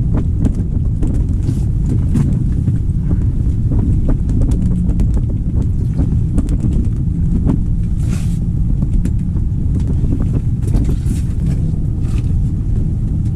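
Strong wind buffeting the microphone, a steady low rumble, with scattered light clicks and taps throughout.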